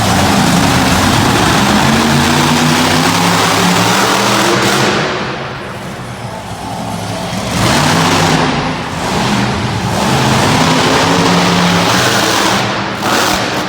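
Monster truck engine revving hard, its pitch rising and falling with the throttle. It eases off for a couple of seconds about five seconds in, then climbs back up, with brief lifts of the throttle near the end.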